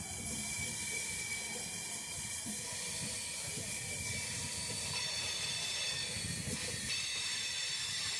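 Train running on the tracks: a steady low rumble under a hiss, with several thin high-pitched squealing tones joining about five seconds in.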